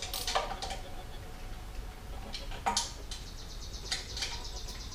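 A few scattered light clicks of hand tools working the intake manifold bolts, with birds chirping faintly in the background.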